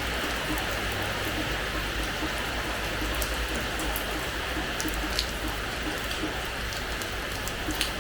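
Steady rain falling on a hard terrace floor, an even hiss with individual drops ticking sharply now and then, a couple of them louder about five seconds in and near the end.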